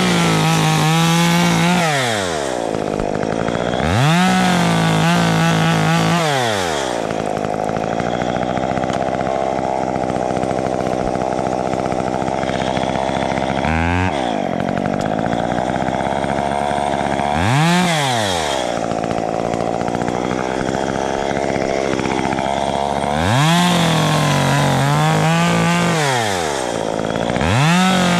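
Two-stroke chainsaw revving to full throttle in several bursts of one to three seconds, dropping back to a lower steady run between them, as it cuts palm fronds.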